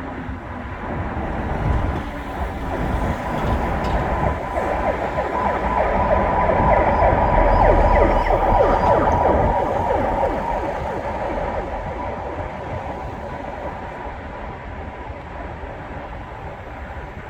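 An emergency siren passing, growing louder to its peak about eight seconds in and then fading, over low traffic rumble.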